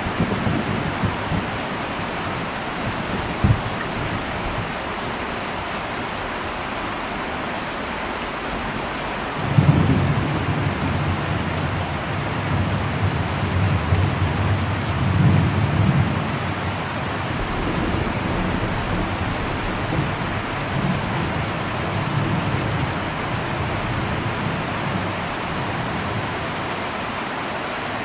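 Heavy rain falling steadily on an old metal roof. About a third of the way in, a roll of thunder sets in suddenly and rumbles low for several seconds, swelling again before it fades.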